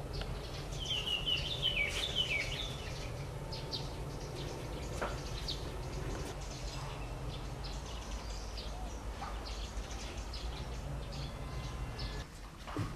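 A small bird singing a quick phrase of high chirping notes that step down in pitch about a second in, then scattered faint chirps over a steady low hum of outdoor background noise.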